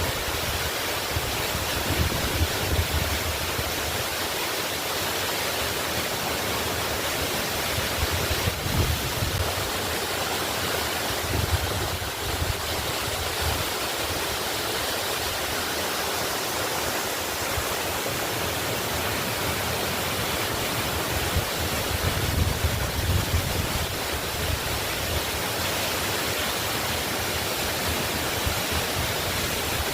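Waterfall rushing steadily, a dense even hiss of falling water, with intermittent low rumbles of wind buffeting the microphone.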